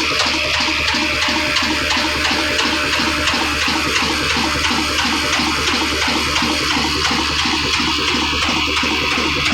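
Old single-cylinder desi diesel engine running steadily, its firing beating evenly about three times a second under a constant loud hiss of machinery.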